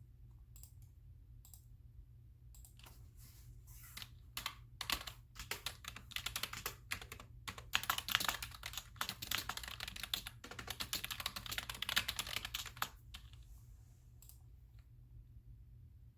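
Computer keyboard typing: a few scattered key clicks, then a fast, dense run of keystrokes for about eight seconds, easing back to occasional clicks near the end, over a faint steady low hum.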